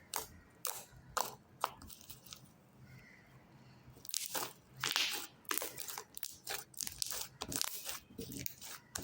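Slime being squeezed and kneaded by hand, giving a few sharp clicks and pops, then from about halfway through a dense run of crackling, crunching sounds.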